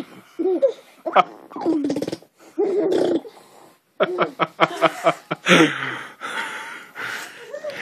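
A baby pressing her mouth to her arm to make fart-like raspberry noises, mixed with her short squealing grunts, and people laughing.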